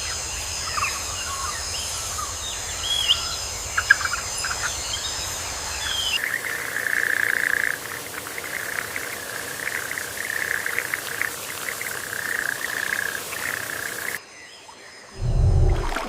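Tropical rainforest ambience: steady high-pitched insect drone with scattered bird chirps, which cuts abruptly about six seconds in to a dense chirring chorus of insects or frogs. Near the end the sound cuts again and a brief low rumble comes in.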